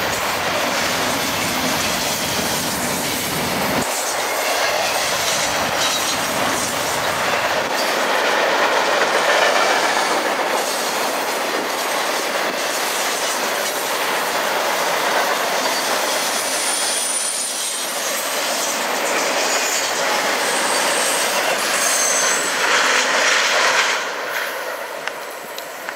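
Double-stack intermodal freight train's container well cars rolling past at speed: steel wheels rumbling and clattering on the rails, with short high wheel squeals a few times. The sound drops somewhat near the end.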